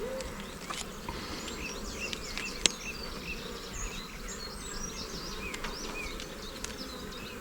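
Honeybees buzzing around an opened hive, a steady hum of many bees, with one sharp click about two and a half seconds in.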